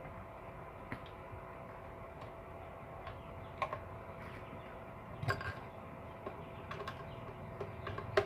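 Scattered small clicks and taps of tools and parts being handled at a workbench, the loudest about five seconds in and again near the end, over a faint steady hum.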